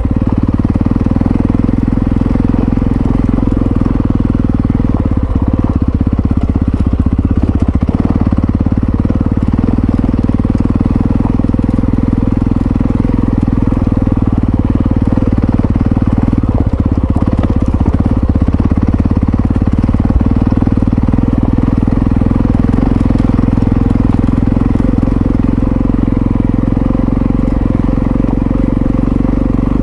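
Yamaha XT660Z Ténéré's single-cylinder engine running steadily, its pitch holding level with no revving.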